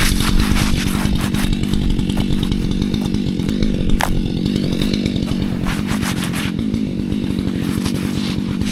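Gas chainsaw running steadily while cutting a stump off low to the ground, with a single sharp tick about four seconds in.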